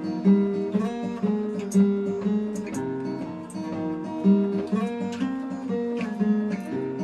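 Live guitar music: chords strummed in a steady rhythm.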